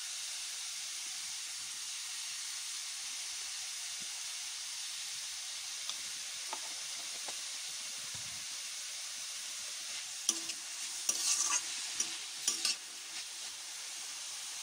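Shredded vegetables sizzling steadily as they fry in an aluminium kadai. From about ten seconds in, a steel spatula scrapes and knocks against the pan several times as the vegetables are stirred and tossed.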